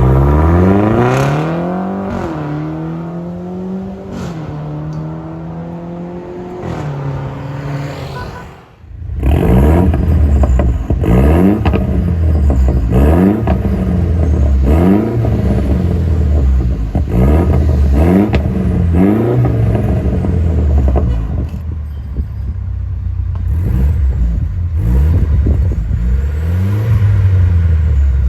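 Mercedes-Benz C300 Coupe's turbocharged four-cylinder engine heard through an aftermarket turbo-back valvetronic performance exhaust. It revs up and holds a steady raised rev for a few seconds, then is blipped repeatedly, the revs rising and dropping about every second and a half.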